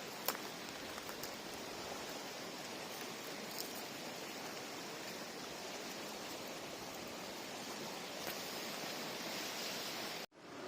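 Steady rushing outdoor noise with a few faint clicks, which drops out abruptly for a moment near the end.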